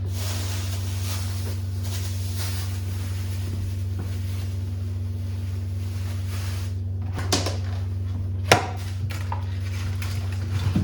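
A few sharp knocks, the loudest about eight and a half seconds in, as produce and containers are set down on refrigerator shelves and in the drawers, over a steady low hum.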